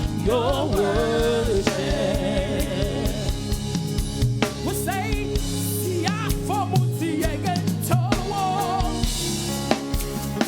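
Live gospel praise-and-worship music: a voice singing a melody with vibrato over sustained low accompaniment and a drum kit keeping a steady beat.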